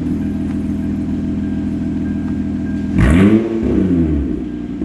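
2005 Hyundai Tiburon engine idling with its secondary catalytic converter cut out, so the exhaust runs open after the headers. About three seconds in, the engine is revved once, the pitch rising and then falling back toward idle.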